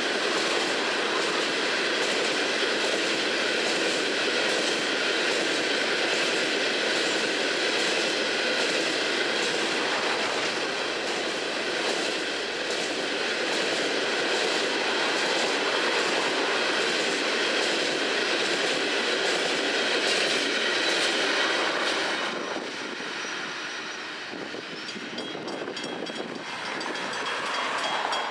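CSX coal hopper cars rolling past, a steady clickety-clack of wheels over the rail joints. The noise drops off noticeably a few seconds before the end.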